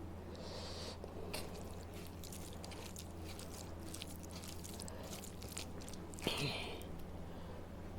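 A person chewing fried rice with onion raita close to the microphone: many soft, wet mouth clicks and smacks, with a brief louder noise about six seconds in, over a steady low hum.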